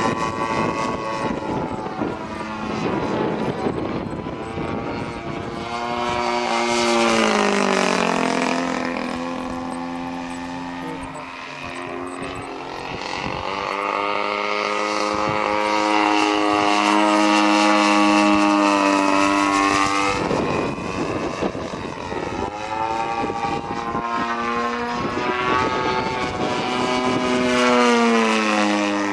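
An engine running steadily, its pitch dropping about a quarter of the way in, climbing again before the middle, and dropping and rising again in the second half.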